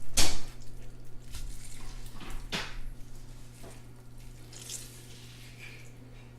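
An orange being squeezed, its juice splashing and dripping into a container. There are a few wet bursts, strongest at the start and again about halfway through, and they fade toward the end over a low steady hum.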